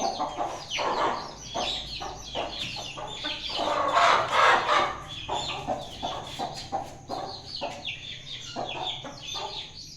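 Chickens clucking in quick repeated calls, with a louder, longer call about four seconds in; the birds are agitated after the rooster has been startled.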